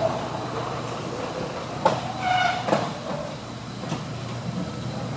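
Raynor commercial garage door travelling on its belt-driven opener with a steady rumble, a click about two seconds in, and a brief squeak just after it.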